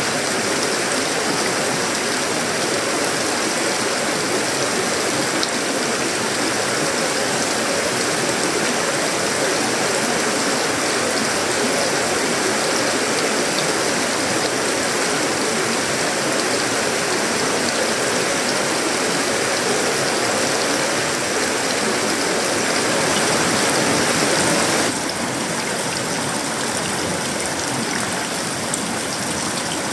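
Heavy tropical rain falling steadily on a sheet-metal roof, wood and leaves, a dense and even patter. It eases a little about five seconds before the end.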